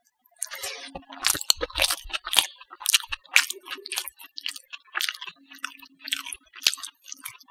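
Close-miked chewing of a mouthful of rice, omelet and mashed potato: a quick, uneven run of crunchy clicks and wet smacks that starts about half a second in.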